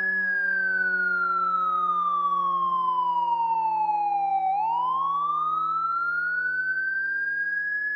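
Fire truck siren wailing in one slow cycle: the pitch falls steadily for about four and a half seconds, then climbs back up, over a low steady drone.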